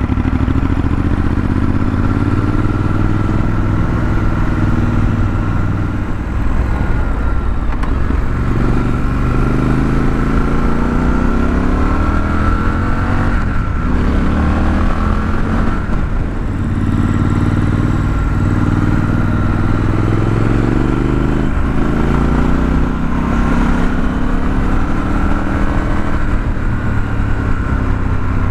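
2021 Triumph Scrambler 1200 XE's 1200 cc parallel-twin engine through its stock exhaust, pulling under acceleration: the engine note climbs in pitch, then drops sharply several times as it changes up a gear, and climbs again.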